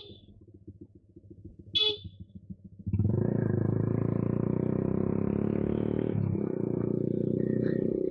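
Suzuki Gixxer single-cylinder motorcycle with an aftermarket SC exhaust idling with an even low pulse, with a short high beep near two seconds. From about three seconds in, the engine is revved and held at high revs for about five seconds, dipping briefly around the six-second mark.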